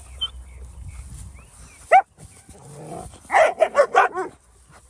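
Dog barking: one sharp bark about two seconds in, then a quick run of five or six barks a second later.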